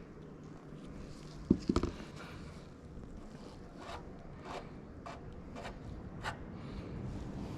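A sharp knock, then about five short scraping strokes roughly half a second apart, over a low steady rumble.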